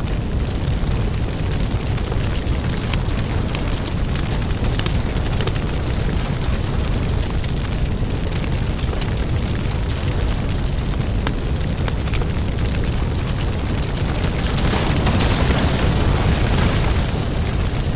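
Wood fire burning in a fireplace: a steady low rumble of flames with frequent sharp crackles and pops, swelling louder and hissier for a few seconds near the end.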